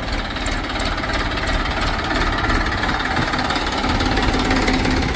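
Heavy machine's diesel engine running with a rapid knocking beat, getting slightly louder, with a steady hum joining about four seconds in.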